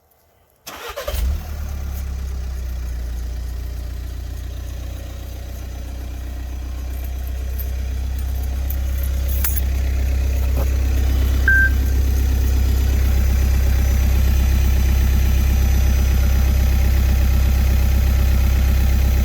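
A 2014 VW Passat TDI's four-cylinder turbodiesel cranks and catches under a second in, then idles steadily through an exhaust with the muffler removed. A short high beep sounds about halfway through.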